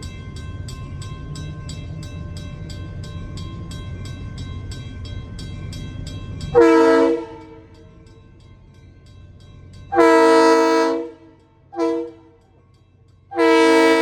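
Diesel locomotive air horn blowing the grade-crossing signal: two long blasts, a short one, then a final long blast. Before the horn there is a low rumble and a steady rapid ringing of a road-crossing bell at about four strokes a second.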